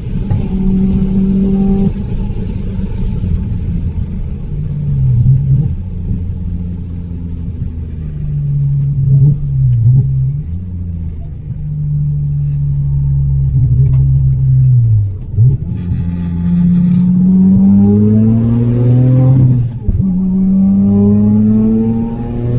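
Mazda RX-7's turbocharged 13B rotary engine driven hard on track, its pitch wavering and changing with the throttle, then two strong rising pulls near the end with a high whine climbing alongside, broken by a sudden drop at the gear change.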